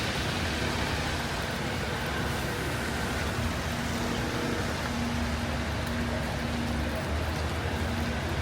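Heavy rain falling on a city street, mixed with traffic noise. From about halfway through, a vehicle's low engine hum comes and goes.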